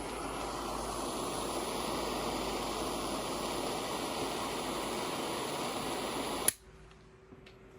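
Butane torch hissing steadily as it heats the quartz banger of a dab rig, then shut off with a sharp click about six and a half seconds in.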